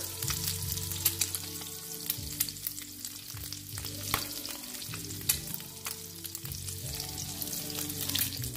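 Eggs set in onion rings frying in olive oil in a nonstick pan: a steady sizzle with many small crackling pops.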